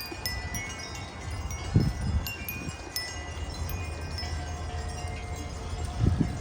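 Several metal wind chimes ringing in gusty wind: many bright struck tones overlapping, with a lower tone ringing on from about four seconds in. A low wind rumble runs underneath, with a dull thump about two seconds in and another near the end.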